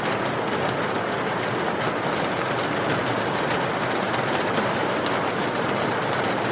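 Steady, even rain, with light crackling from a burning wood fire.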